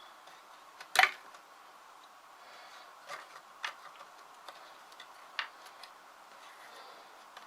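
Wooden sticks of a snare trap knocking and clicking together as they are handled and set. There is one sharp knock about a second in, then a few lighter clicks.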